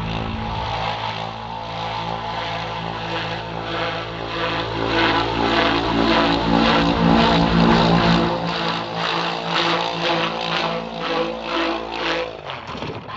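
OS Max .40 nitro (glow) engine of a radio-controlled helicopter running steadily with its rotor, with a rhythmic pulsing about two to three times a second. The sound drops away abruptly near the end.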